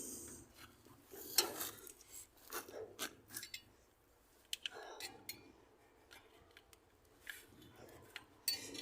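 Plastic wiring-harness connectors and clips being worked loose by hand in an engine bay: irregular sharp clicks and rustling, with a quieter stretch in the middle.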